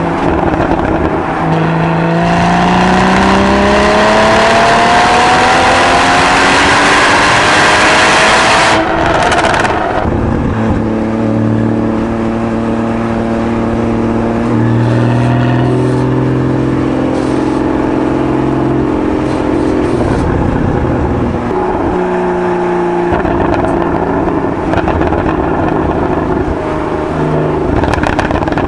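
Porsche 981 Boxster GTS's 3.8-litre naturally aspirated flat-six on its stock exhaust, pulling hard with the pitch rising steadily for about eight seconds, then dropping sharply about nine seconds in. After that it runs at steadier, lower revs with a few stepwise changes in pitch.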